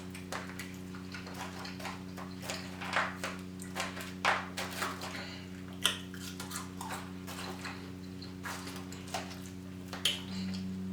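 Chewing and mouth sounds of someone eating, as a string of short, irregular smacks over a steady low hum.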